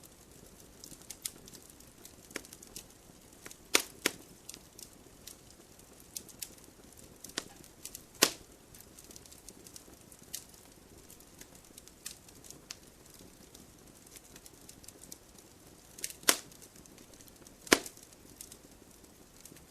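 Firewood crackling in a wood-burning stove: scattered small ticks and snaps over a faint hiss, with sharper pops, a pair about four seconds in, one around eight seconds, and two near the end.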